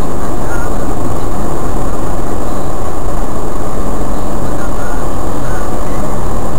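Loud, constant rumble of a moving car, road and engine noise heard from inside the vehicle on a dashcam-type microphone.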